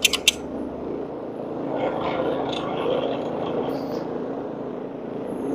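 Carpet cleaning machine running steadily, a continuous drone with a low hum underneath that swells slightly midway.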